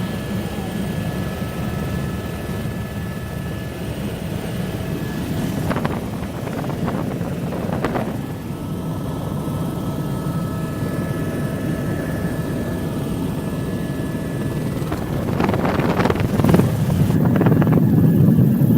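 Helicopter rotor and turbine heard from inside the cabin: a steady low drone with faint high whining tones, growing louder about two-thirds of the way through.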